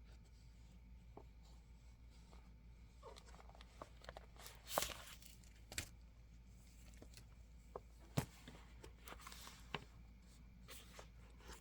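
Stiff plastic planner cover being handled: scattered soft rustles and sharp clicks over a quiet room hum, with the loudest clicks about five and eight seconds in.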